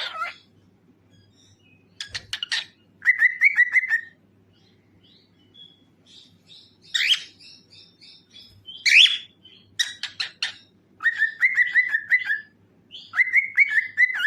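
Cockatiel singing in short bursts of rapid, repeated chirps, with two sharp down-sliding calls about seven and nine seconds in.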